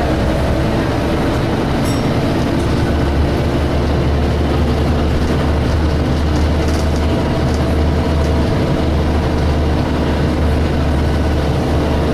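DAF SB220 single-deck bus with Ikarus Polaris body, heard from inside the saloon while under way: a steady engine drone with a deep rumble and several steady higher tones, with a few light rattles now and then.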